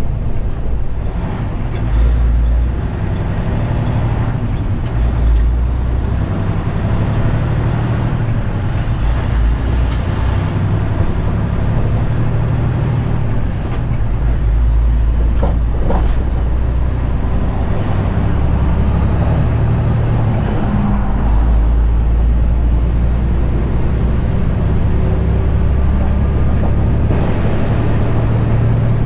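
The Detroit DD15 inline-six diesel engine of a 2021 Western Star 4900 semi truck running while the truck is driven, its low rumble rising and falling in stretches. It has its stock DPF and DEF exhaust, not straight pipes.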